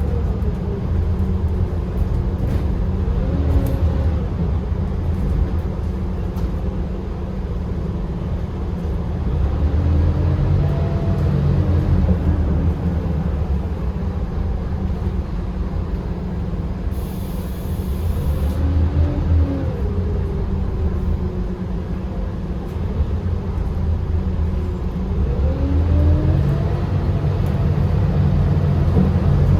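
Scania K280UB bus's 9.3-litre five-cylinder diesel and ZF EcoLife six-speed automatic running under way, a steady rumble with a whine that rises and falls about four times as the bus speeds up and slows. A short hiss about halfway through.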